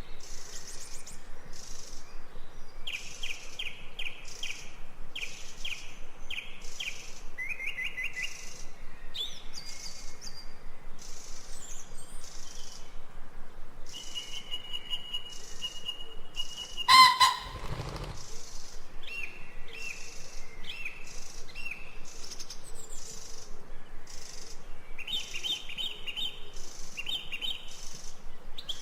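Birds chirping and singing in a nature-sounds recording, short repeated chirps and trills coming one after another. About two-thirds of the way through, one brief, much louder sound cuts across them.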